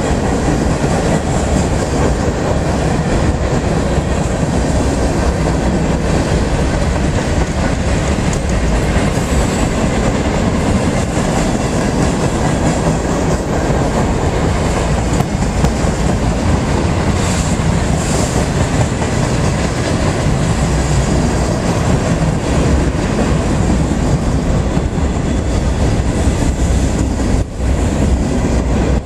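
Freight train of boxcars and covered hopper cars rolling past: a steady rumble of steel wheels on the rails with a continual clickety-clack.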